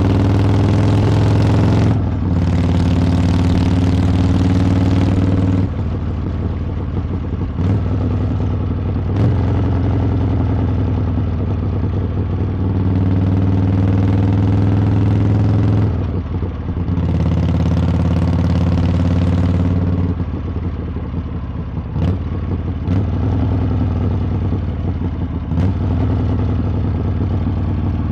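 Harley-Davidson V-twin motorcycle exhaust under way, the engine pulling hard in several louder stretches and easing off between them, with brief breaks and pitch changes at gear shifts.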